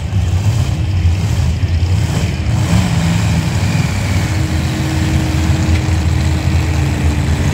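Alcohol-fuelled pulling truck engine running loud, its low-pitched drone steady with a thin steady tone over it in the second half.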